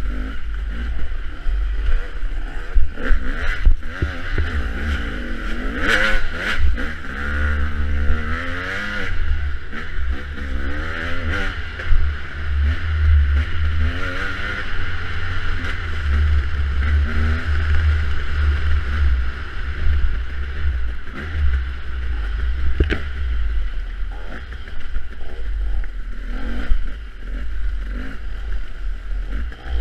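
Dirt bike engine revving up and down again and again as the throttle is worked, its pitch rising and falling every second or two, with heavy low wind buffeting on the microphone.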